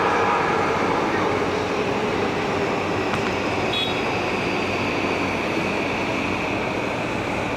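Electric commuter train running: a steady rumble with a high, even whine over it.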